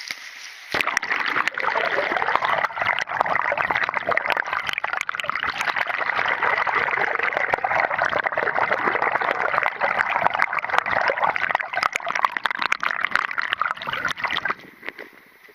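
Water running steadily in a dense, splashing stream; it starts abruptly about a second in and stops about a second before the end.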